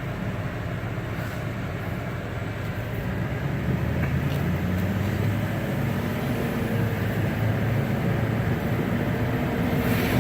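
2006 Chevrolet Silverado dually's 6.6-litre turbo-diesel V8 engine and road noise while the truck is driven, a steady low rumble that grows a little louder from about three seconds in.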